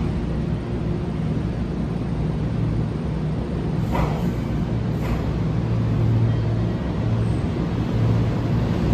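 Electric train's steady low hum, with two brief sharp clicks about four and five seconds in.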